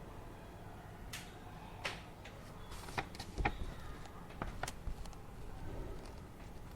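A few scattered light clicks and taps, with a short rustle, from objects or paper being handled at a desk, over the low steady hum of an air purifier.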